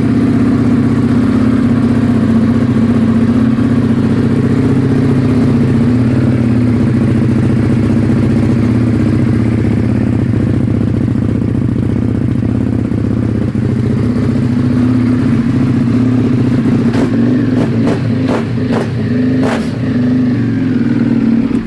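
EBR 1190RX's 1190 cc V-twin engine running at a steady idle, with some irregular clatter in the last few seconds. It cuts off at the very end.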